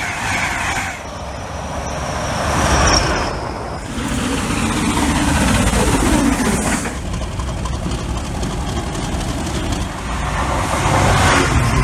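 Passing trains in quick cuts a few seconds apart: an electric express train rushing past a platform, then a steam locomotive, then a diesel freight locomotive approaching, with a louder low rumble near the end.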